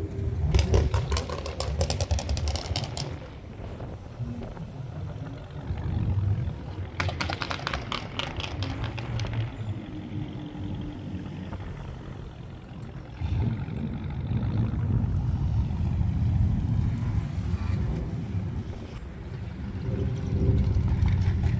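Low rumble of car engines, broken twice by a couple of seconds of rapid clicking clatter.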